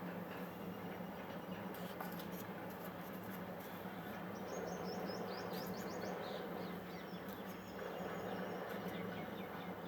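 A small bird chirping in a quick twittering run about halfway through, with a few more chirps near the end, over a steady low hum and background noise.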